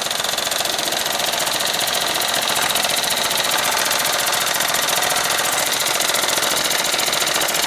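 Small live-steam model engines running fast: a steady, rapid, even chuffing clatter, getting a little louder about two seconds in.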